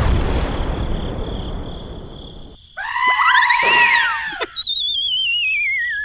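Edited-in cartoon comedy sound effects: a sudden crash that fades away over about two and a half seconds, then a burst of warbling, swooping tones, then a wobbly whistle sliding down in pitch.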